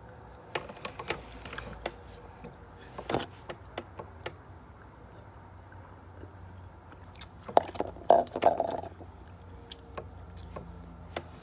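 Close-up eating sounds: scattered wet smacks and clicks of chewing finger food, with a louder cluster of mouth sounds a little past the middle.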